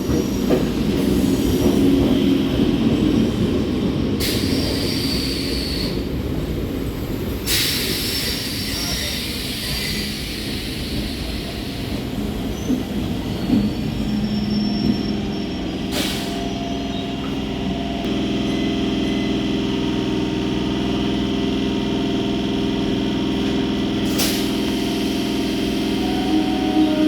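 A train running past on the track, its rumble carrying two short bursts of hiss early on. From about halfway a steady hum with several level tones takes over, with a sharp click twice.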